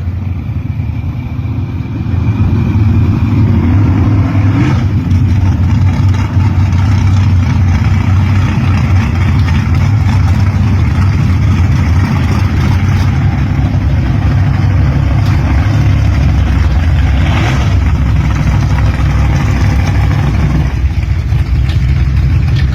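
Loud engines of gasser drag cars running with a heavy, steady rumble, getting louder about two seconds in.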